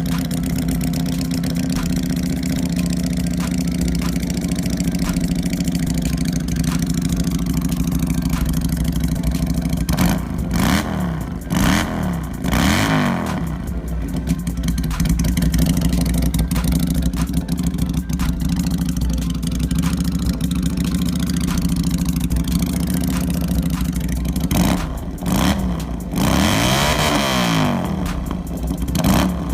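FKM Victorino 250 motorcycle engine idling through its exhaust, with several quick throttle blips about a third of the way in and a longer rev near the end.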